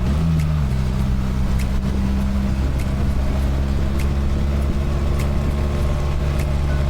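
BMW R1300 GS boxer-twin engine running steadily under way. Its pitch changes briefly just after the start, then holds even.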